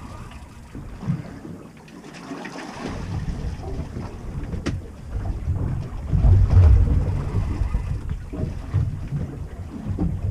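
Wind buffeting the microphone in uneven gusts, heaviest about six seconds in, with a single sharp click about halfway through.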